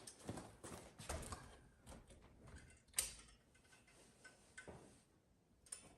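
Faint, scattered light clicks and taps of hands handling tools and materials, with one sharper click about three seconds in.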